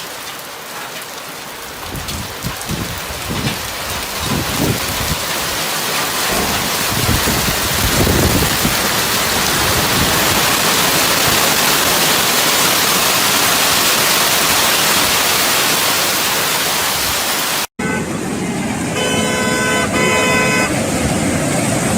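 Heavy rain pouring in a dense, steady rush that builds over the first several seconds, with low gusty rumbles at the start. After an abrupt cut near the end, car horns honk repeatedly in short and long blasts.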